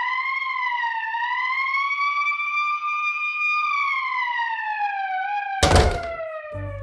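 A single siren-like wailing tone that rises briefly, holds, then slowly falls in pitch, with a loud thump about six seconds in.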